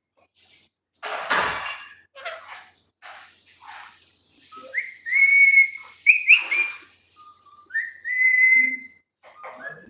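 Pet parrot vocalising: a loud scratchy squawk about a second in and short chirps, then two held whistles, each sliding up into a steady note, near the middle and about eight seconds in.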